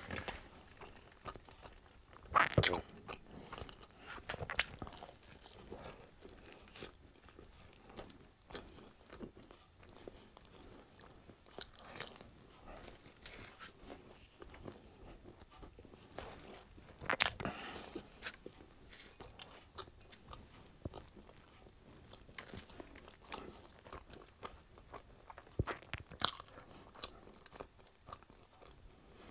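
Close-miked eating: biting and chewing pizza crust in the mouth, wet chewing with scattered crunches, a few of them louder, a couple of seconds in, about halfway through and near the end.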